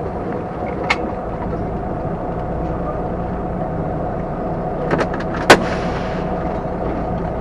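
Semi truck's diesel engine running steadily, heard from inside the cab. A sharp click comes about a second in, then a couple more clicks and one loud sharp knock at about five and a half seconds.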